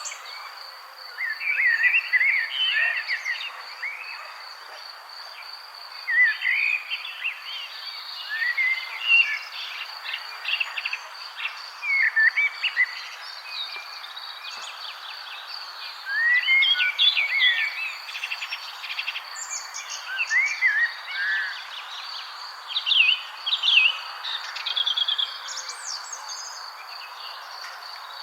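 Songbirds chirping and warbling in short phrases every second or two, over a steady high insect trill and a constant background hiss.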